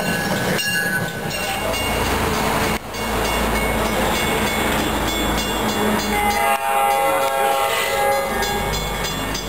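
MBTA commuter rail train rolling past with a steady low rumble of wheels on rail; after an abrupt cut, an approaching diesel locomotive with its train, sounding a steady multi-note air horn chord from about two-thirds of the way through.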